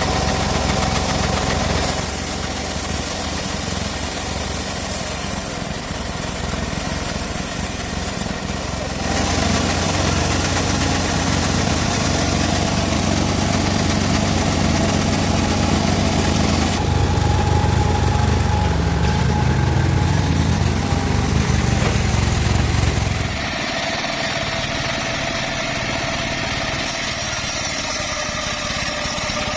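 Engine-driven portable band sawmill (gergaji selendang) running while sawing teak. The engine note is steady, gets louder about a third of the way in, and drops back near the end.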